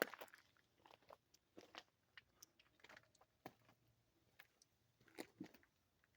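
Near silence, broken by faint, irregular crunches and clicks.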